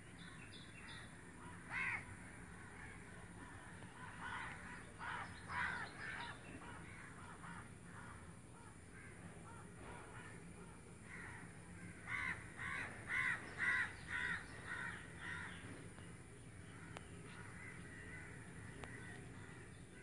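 Bird calls in bursts: a single call about two seconds in, a cluster of calls around five seconds, and a louder run of about six calls between twelve and fifteen seconds, over steady low background noise.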